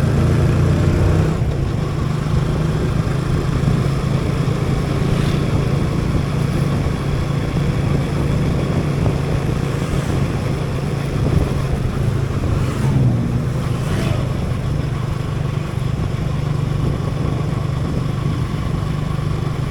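Motorcycle engine running steadily while riding, under a haze of wind and road noise; the engine note shifts briefly about thirteen seconds in.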